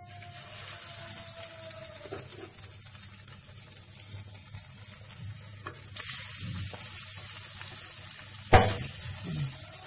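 Yogurt-marinated chicken pieces sizzling in hot oil in a kadai as they go in and are turned with a spatula, a steady high hiss with a few light clicks. One sharp knock near the end is the loudest sound.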